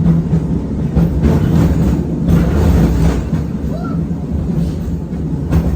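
A tram running on its rails, heard from inside the car: a steady motor hum over wheel and track rumble, with a few brief clicks.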